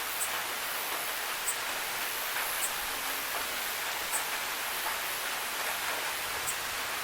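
Steady rainfall hiss, with a few brief high ticks of drops striking something hard.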